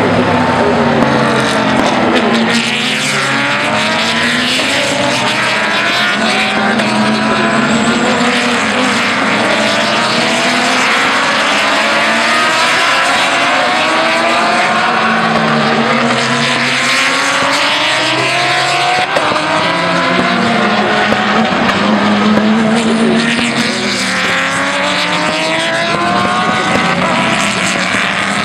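Several race car engines running flat out past the listener, one after another and overlapping, each one's pitch dropping as it goes by.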